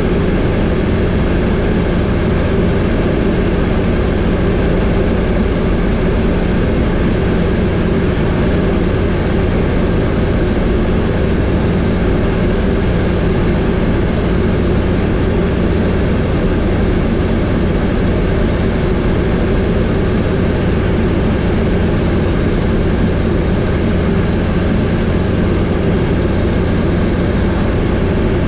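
Helicopter in flight, heard from on board: a steady drone of engine and rotor with an even low hum and no change in pitch.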